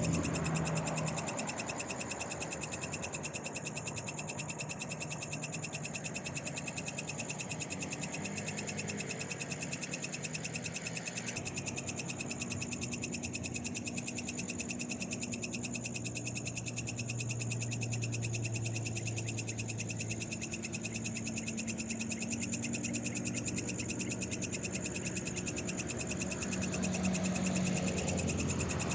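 Night chorus of frogs and other night animals calling in a dense, steady, rapidly pulsing trill. A low hum swells and fades in the second half.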